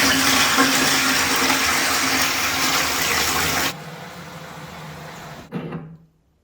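Toilet flush tank flushing: water rushes loudly into the bowl, then drops off abruptly about two-thirds of the way in to a quieter run of water, and stops just before the end.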